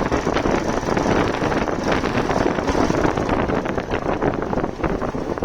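Wind buffeting the microphone on a moving motorcycle, a loud, ragged rush with the bike's engine and road noise underneath.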